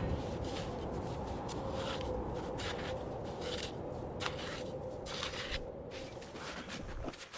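Irregular soft scrapes and crunches over a steady low rumble, cutting off near the end.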